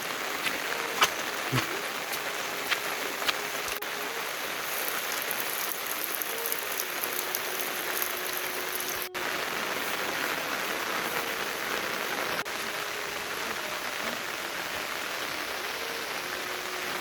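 Steady rain falling, an even hiss, with a few loud individual drops striking close by in the first few seconds.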